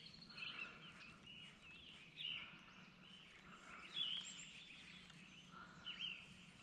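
Faint bird calls: short chirps and warbles repeating every second or so, the loudest about four seconds in.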